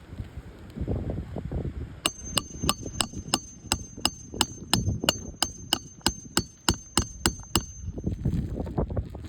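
Hammer driving a roofing nail, about eighteen quick even blows at roughly three a second, each with a metallic ring, as the replacement shingle is nailed down. The blows start about two seconds in and stop near the end.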